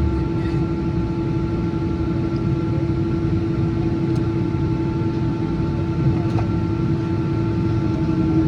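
Boeing 777-200ER jet engines running steadily, heard inside the cabin: a constant whine over a low rumble.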